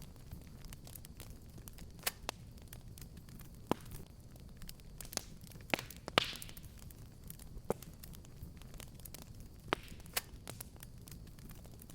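Fireplace fire burning with a steady low rumble and irregular crackles and sharp pops from the burning wood, about a dozen in all; the loudest pop comes about six seconds in with a brief hiss.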